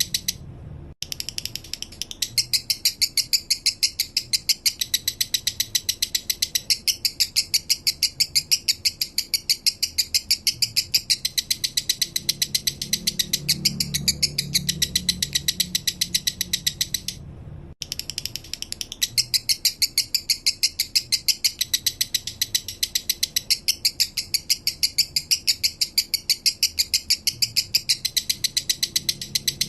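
Male lovebird singing in the slow 'minor' style: a long, fast, even run of high, sharp chirps, several a second. The run breaks briefly twice, once just under a second in and once a little past halfway.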